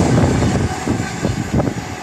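A passing train receding, its wheels knocking over the rail joints a few times as the rumble fades.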